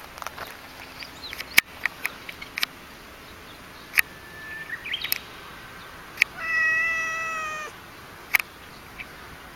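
Domestic tabby cat letting out one long, drawn-out yowl, about a second long and falling slightly in pitch, as it faces a coiled snake. Several short sharp clicks are scattered around it.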